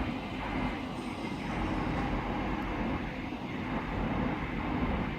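Steady rumble of a train at a station platform, with a faint steady high whine.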